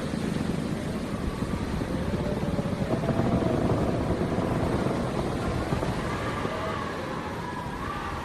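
Strong wind gusting with a deep rumble and a howling whistle that slides up and down in pitch. The gust swells about three seconds in, and the whistle climbs higher near the end.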